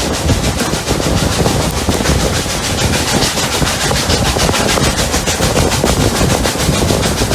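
Steam locomotives Rx207 and 621 working hard on a climb, a loud, steady run of rapid, even exhaust beats mixed with the rumble of the train on the rails.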